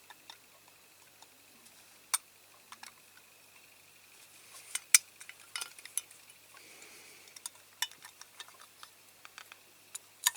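Scattered light clicks and taps of a Dinky Toys Big Bedford van's diecast metal body and chassis being handled and tried together, the loudest about five seconds in. A faint steady high whine runs underneath.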